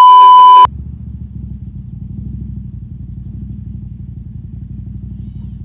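A loud, steady 1 kHz censor bleep cuts off about two-thirds of a second in. After it, an ATV engine runs steadily with a low rumble.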